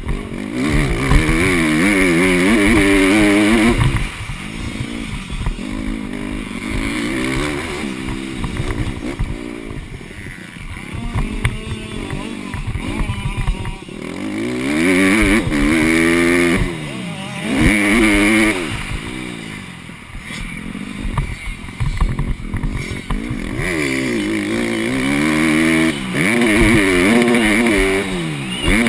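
Honda CRF150R four-stroke single-cylinder dirt bike engine at racing revs, its pitch climbing and dropping again and again through the gears and off the throttle. The longest spells of full revs come near the start, about halfway through, and near the end.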